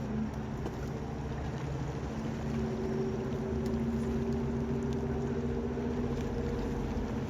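A motor engine humming steadily over a constant rushing noise, its hum growing stronger about two seconds in and easing off near the end.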